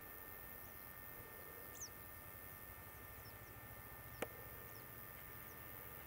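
Faint chirping of small birds: short, high, falling notes every second or so, with a single sharp click about four seconds in.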